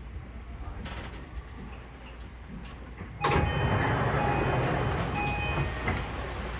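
Tokyu 3020-series electric train running, heard from inside the front car: a low steady rumble that turns suddenly much louder about three seconds in, with added rushing noise and faint whining tones.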